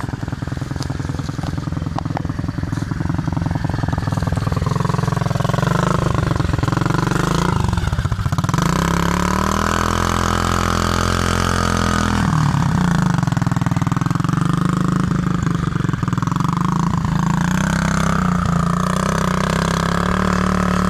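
A 110 cc pit bike's single-cylinder four-stroke engine running and being revved. The pitch climbs, drops sharply about eight seconds in, holds high for a few seconds, falls back, then rises again near the end.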